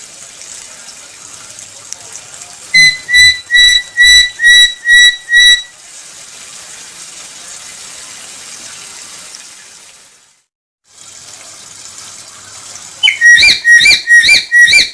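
Black-capped lory calling: a quick run of about seven loud, high whistled notes, evenly spaced, about three seconds in, and another run of bending whistles near the end. A steady hiss lies underneath, and the sound drops out briefly between the runs.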